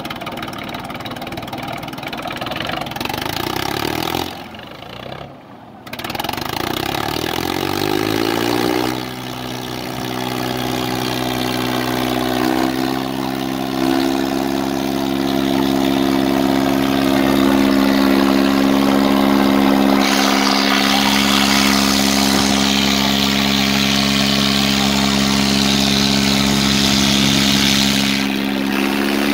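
Swaraj 855 tractor's three-cylinder diesel engine running loud. Its sound drops away briefly about four to six seconds in, then the engine revs up over a couple of seconds and holds steady at high revs.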